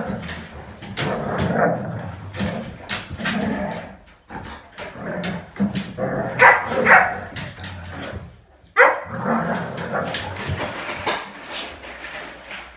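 Dogs play-fighting: steady growling with sharp barks, the loudest a pair of barks just past halfway and another a couple of seconds later.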